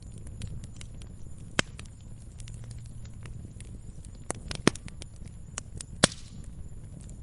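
Wood fire crackling in a fireplace: irregular small snaps with a few sharper pops, the loudest about six seconds in, over a low steady rumble.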